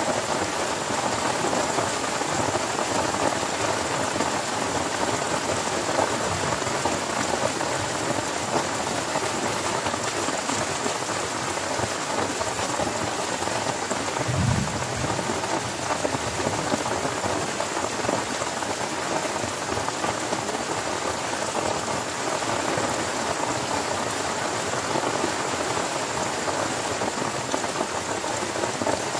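Heavy rain falling steadily, with one short low rumble about halfway through.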